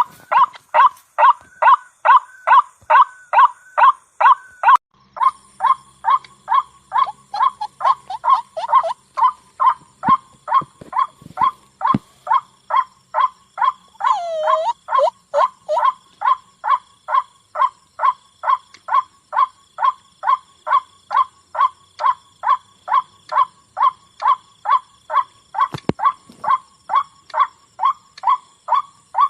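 White-breasted waterhen (ruak-ruak) calling, one monotonous note repeated about twice a second without a break, with one lower, drawn-out note about halfway through.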